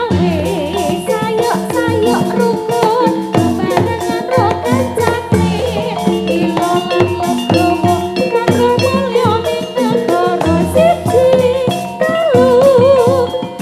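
Live jathilan music through a loud sound system: drum strokes keeping a steady beat under held gamelan tones, with a wavering melody on top.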